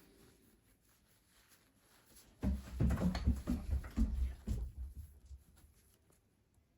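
Terry cloth rubbing and wiping over a pocketknife to take off Nevr-Dull polish: a scratchy burst of rubbing and handling noise starting about two and a half seconds in, lasting about two and a half seconds, then fading.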